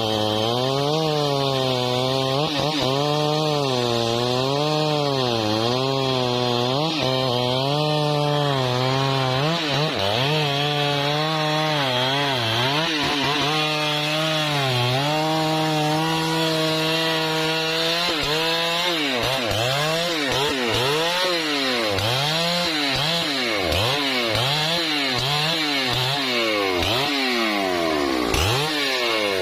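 Husqvarna 3120 XP chainsaw's big two-stroke engine running under load as it cuts through trembesi wood, its pitch sagging and recovering in slow waves. After about twenty seconds the pitch starts swinging up and down much faster and less evenly.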